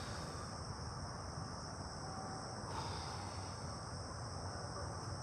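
Insects, likely crickets, chirring in a steady high-pitched chorus, with a low, even rumble underneath.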